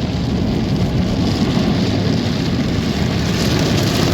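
Automatic car wash tunnel machinery heard from inside the car: a steady low rumble with a hiss of spray that grows stronger about a second in.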